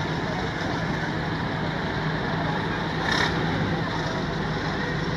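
A motor engine running steadily with a constant low hum, and a brief click about three seconds in.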